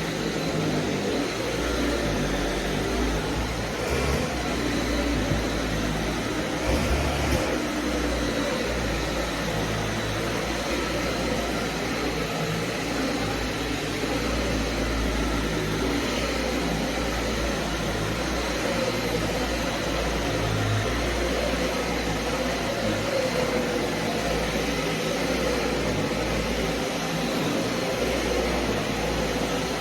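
Vacuum cleaner running steadily, a constant rushing noise with a faint high whine and a wavering motor hum underneath.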